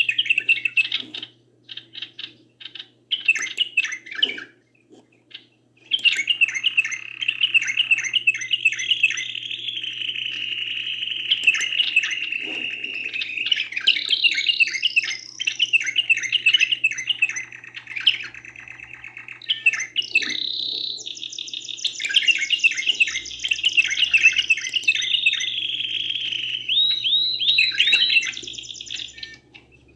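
Canary song: long runs of fast rolling trills and chirps. It pauses briefly about five seconds in, then sings almost without a break.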